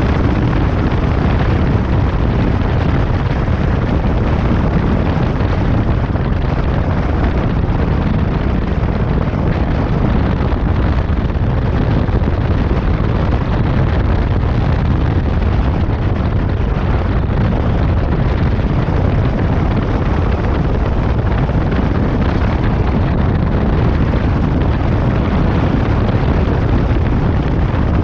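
Loud, steady rumble of wind buffeting the microphone on a moving motorcycle, mixed with the motorcycle's engine running.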